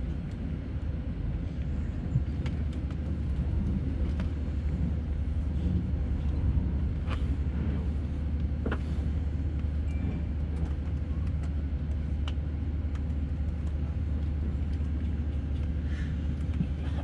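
Steady low rumble inside the cabin of an Airbus A319-112 on the ground, with a few faint clicks.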